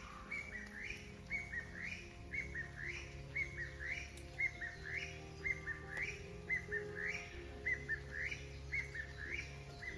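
A bird calling with short, hooked chirps repeated about three times a second. Soft background music with long held tones plays beneath it.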